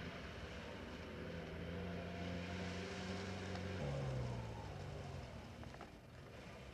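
An off-road 4x4's engine running steadily as the vehicle drives; about four seconds in its note jumps higher, then it fades away, with a few faint clicks near the end.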